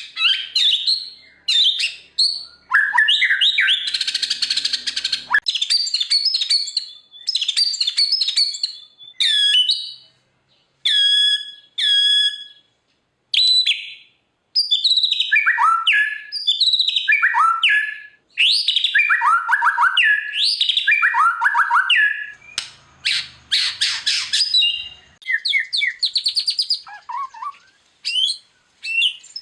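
White-rumped shama (murai batu) singing a long, varied song of loud whistled phrases: repeated falling and rising sweeps and quick trills with short pauses between phrases, and harsh rasping notes about four seconds in and again near the twenty-third second.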